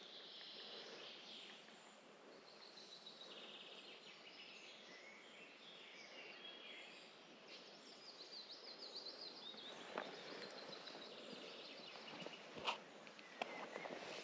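Songbirds singing, repeated trilling chirps, over faint outdoor hiss; a few sharp clicks near the end.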